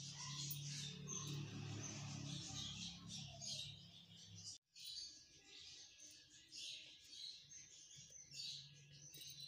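Small birds chirping: many short, quick high calls, close together. A low steady hum sits under them for the first half.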